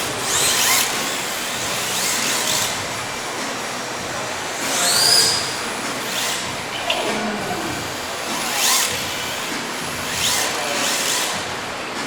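Rear-wheel-drive RC drift cars' electric motors whining, rising and falling in pitch over and over as the cars rev through the slides, over a steady hiss of the hard drift tyres sliding across the tile.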